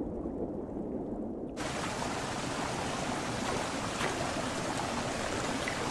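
Flowing river water. For the first second and a half there is only a muffled low rush, then it abruptly opens out into a full, bright rush of running stream water.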